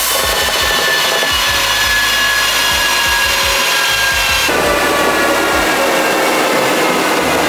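Audi S5's 3.0-litre turbocharged V6 running hard on a chassis dyno, a loud raspy engine and exhaust note whose pitch sags slowly. The sound changes abruptly about four and a half seconds in.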